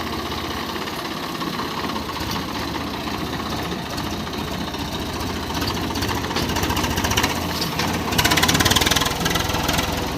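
Swaraj 855 FE tractor's three-cylinder diesel engine running under load as it tries to climb a rise with the plough, getting louder about six seconds in and loudest near the end.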